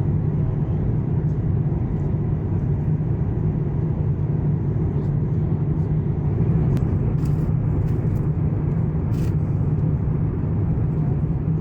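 Steady airliner cabin noise inside an Airbus A350-900: an even low rumble of airflow and engines, with a few faint clicks about two thirds of the way through.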